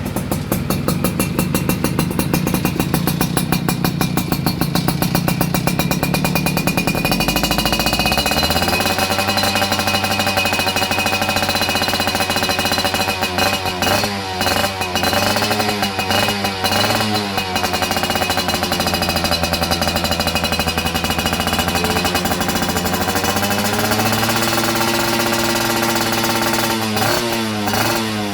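Yamaha F1ZR two-stroke single-cylinder engine running through a chrome JPM Racing standard-racing exhaust. It holds a higher speed, drops lower about eight seconds in, and then takes quick throttle blips in the middle and near the end.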